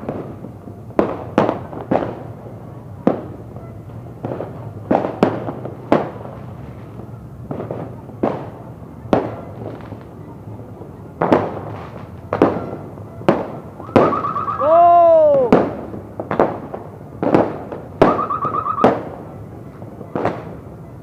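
New Year fireworks going off: a string of sharp bangs about one a second, irregularly spaced, each with a short echoing tail. About two-thirds of the way in a whistling firework sounds, its pitch rising then falling, and a short high beeping tone comes and goes a few times.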